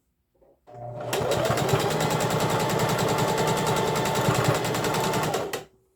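Electric sewing machine stitching a row around an elastic waistband. It winds up to speed about a second in, runs at a steady fast stitch, then stops shortly before the end.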